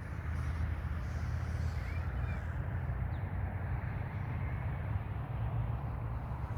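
Steady rushing noise of falling water from a park's waterfall, with a couple of faint bird chirps about two seconds in.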